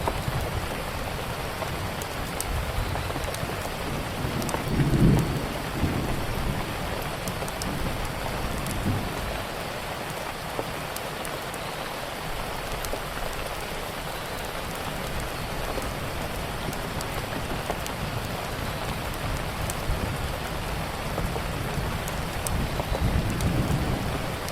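Steady heavy rain on a surface, with a wood fire's small crackles and pops scattered through it. Low rumbles swell about five seconds in and again near the end.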